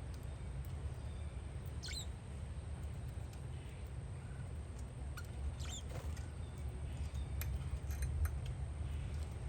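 Wind rumbling on the microphone, with short high parakeet chirps about two seconds in and again about six seconds in.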